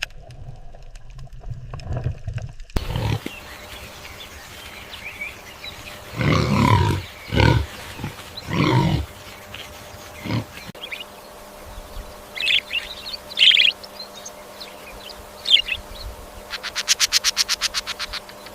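A series of animal calls: three loud, low, rough calls in a row, then a few shorter, higher-pitched calls, and near the end a quick run of rapid pulses.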